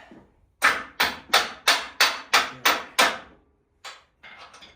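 Hammer blows on metal: eight sharp strikes in quick succession, about three a second, followed by a few lighter clanks. The blows drive a bolt through an engine mount while the engine is being set into the truck.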